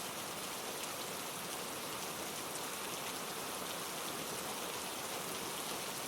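Steady, even hiss of falling water like rain, the kind of rain or waterfall ambience a rainforest-themed restaurant plays or runs.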